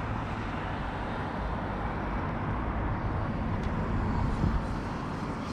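Arrma Kraton 8S 1/5-scale electric RC truck running, a steady whir of its brushless motor and drivetrain mixed with tyre noise on the ground.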